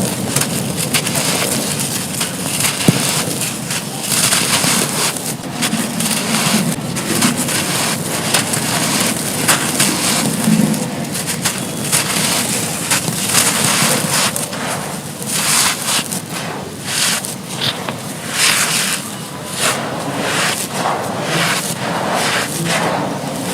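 Dry, soft charcoal, ash and brick pieces being crumbled and crushed: a dense, continuous run of gritty crunches and crackles.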